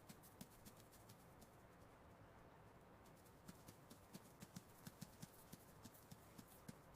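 Faint, quick, irregular light taps over a low hiss, coming thickest in the second half: the patter of a mouse's scurrying feet.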